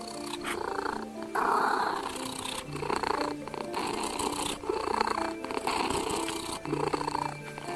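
A domestic cat purring in a steady rhythm of swells, about one breath a second, over soft background music of slow, held notes.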